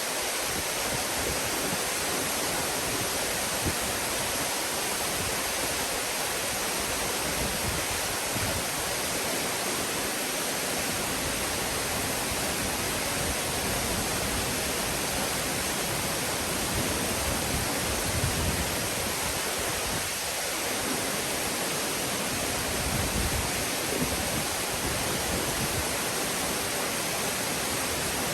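Nunobiki Falls waterfall: a steady rush of falling water, with brief low rumbling swells now and then.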